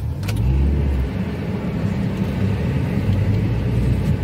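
Small car engine being started: it catches right at the start with a short surge in the first second, then settles into steady running.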